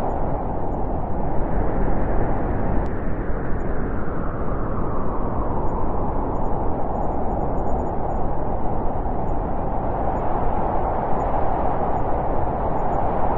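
Wind blowing steadily, a rushing noise that eases a little midway and builds again towards the end.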